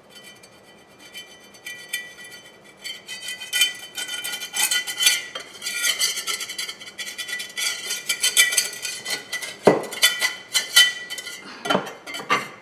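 Hard objects clattering and scraping in quick, irregular strokes as cleaning work goes on around a refrigerator, busier after the first few seconds. Two sharper knocks come about ten and twelve seconds in.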